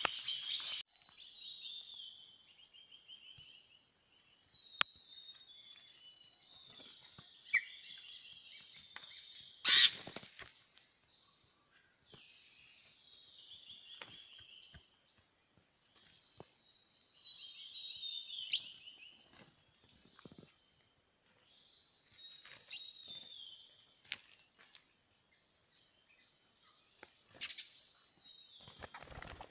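Several small forest birds calling in agitation: short bursts of high chirps and twittering trills that come and go with brief gaps. A few sharp clicks cut through, the loudest about ten seconds in.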